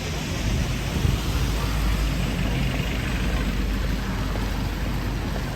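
Road traffic passing on a wet city street: a steady low engine rumble over a hiss, swelling a little in the middle as a vehicle goes by.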